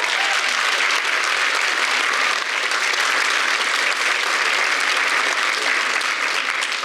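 Audience applauding steadily, a dense even clapping from a concert crowd.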